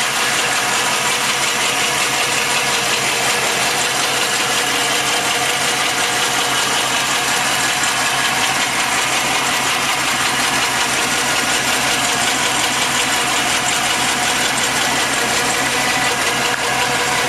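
Mildly modified 5.7-litre 350 V8 of a 1988 Chevrolet 1500 pickup idling steadily.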